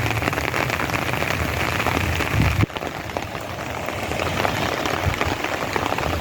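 Light, steady rain falling: a dense patter of small, frequent drops on wet surfaces. It drops a little in loudness about two and a half seconds in and keeps going.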